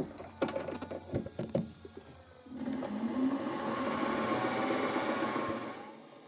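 A few clicks and knocks of tooling being handled, then a metal lathe starts up about two and a half seconds in, with a short rising whine. It runs steadily for about three seconds while center drilling the end of the connecting-rod blank, then stops.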